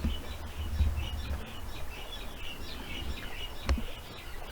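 Small songbirds chirping and twittering in a quick run of short high notes, over a low rumble, with one sharp click near the end.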